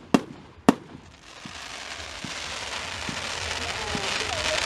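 Fireworks display: two sharp bangs in the first second, then a dense crackling hiss of crackling-effect fireworks that grows steadily louder, with faint soft thuds under it.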